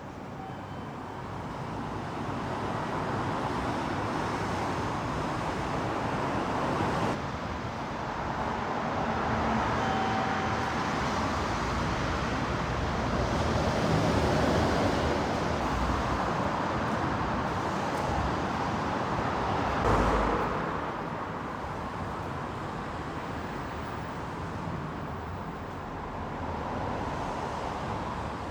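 Road traffic, with vehicles passing in a steady rushing noise that swells and fades. A short thump comes about twenty seconds in.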